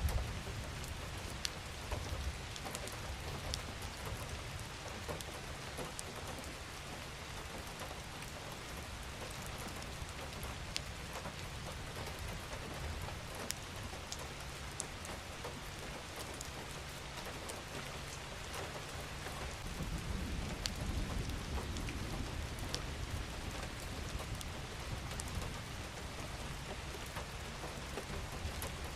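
Steady rain falling, with individual drops ticking sharply here and there. A low rumble runs underneath and swells about two-thirds of the way through.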